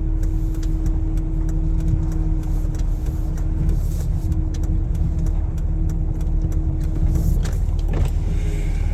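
Pickup truck running at low speed on a snowy road: a steady low engine drone with a faint constant hum over it and scattered light clicks and crunches.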